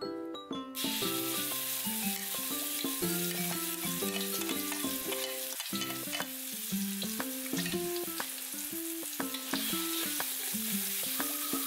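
Ground chili paste sizzling as it hits hot oil in a wok, starting under a second in, then frying steadily while a metal spatula stirs and scrapes it. Background music with a melody plays over it.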